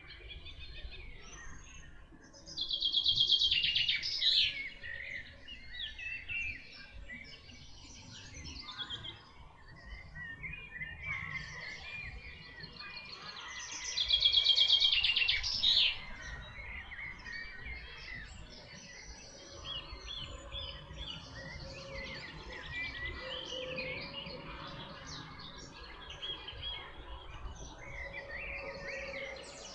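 Several songbirds singing together in woodland, varied chirps and trills throughout. One bird's loud, rapid trilled phrase stands out twice, about three seconds in and again about fourteen seconds in, over a low steady background rumble.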